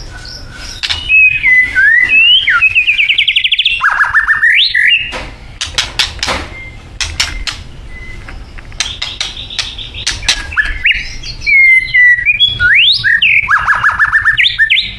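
White-rumped shama singing: loud phrases of gliding whistles and fast trills, with a sparser stretch of short clicking notes in the middle before the song picks up again.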